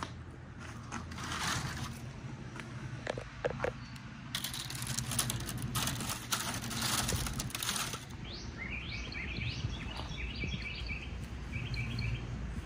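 Rustling and handling noise with a few clicks, then, about two-thirds of the way in, a bird starts singing quick runs of short chirps, repeated in several phrases.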